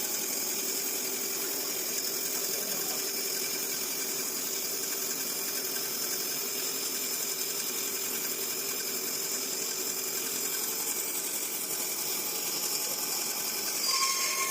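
Horizontal gantry woodworking band saw running steadily: a continuous mechanical hum with a high hiss.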